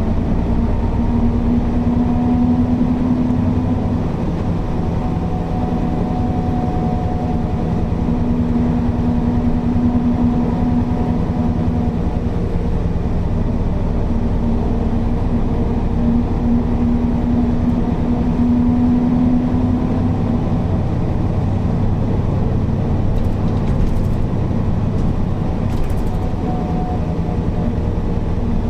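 Mercedes-Benz O408 bus's diesel engine and drivetrain running steadily under way: a low drone with a humming tone that swells and fades several times. A few faint clicks come near the end.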